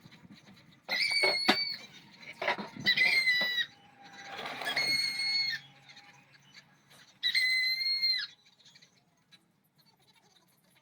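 High-pitched whine of a small power sanding tool, switched on in four short bursts of about a second each, always at the same pitch. A few sharp clicks come early, and a rougher hiss of sanding contact comes under the third, longer burst.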